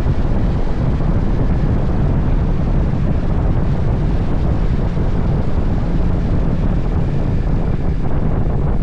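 Steady, loud wind rumble buffeting the microphone, a dense low roar with no distinct events.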